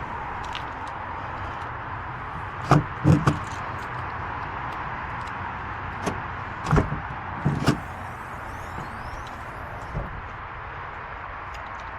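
Steady background hum broken by loud clunks around a vehicle, like doors and fittings being handled: three close together about three seconds in, three more around seven seconds, and a lighter knock near ten seconds.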